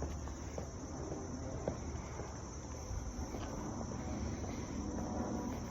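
Steady high-pitched chorus of insects such as crickets, over a low outdoor rumble with a few faint ticks.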